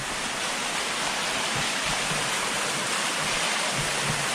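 Waterfall: falling water rushing steadily, close by.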